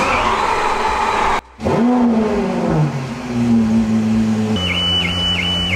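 Gintani-tuned Lamborghini Aventador SVJ's V12 starting up: the revs flare sharply, then fall back and settle into a steady idle. Near the end a high electronic warning chime repeats about three times a second.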